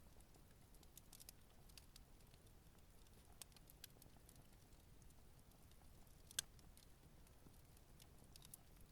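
Campfire crackling softly, with scattered small pops and one sharper pop about two-thirds of the way through.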